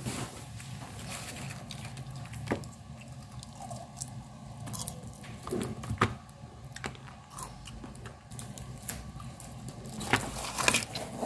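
Close-up chewing and eating sounds from someone eating rice and grilled chicken by hand, with many small scattered clicks and soft smacks.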